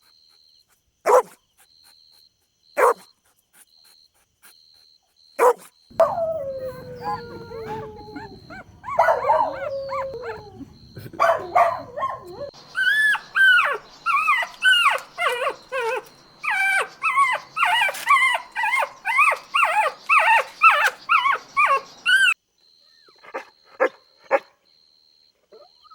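Dog barking and howling: a few sharp single barks, then a drawn-out whining howl that slides down in pitch, then a fast run of high yipping barks, two or three a second for about ten seconds, before a few quieter barks near the end.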